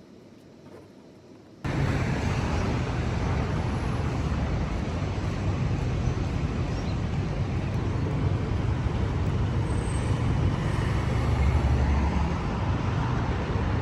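Steady vehicle or road-traffic noise with a low rumble, cutting in suddenly about two seconds in after a quiet stretch.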